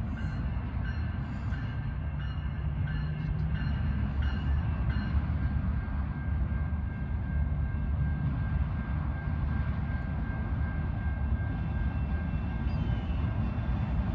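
Approaching CN freight train: the leading diesel locomotive's engine gives a steady low rumble that grows slightly louder as it nears.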